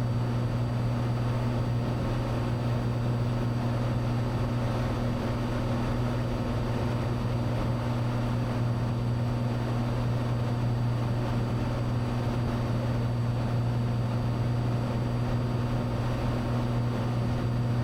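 Cessna 182 Skylane's engine and propeller droning steadily in cruise, a constant low hum with no change in pitch.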